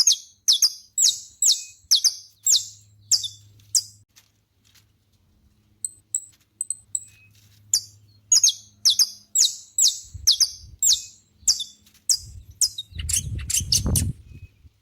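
Saffron finch singing: two runs of sharp, quickly repeated notes that sweep downward, about two to three a second, with a pause of a few seconds between them. A brief low rumble comes in near the end.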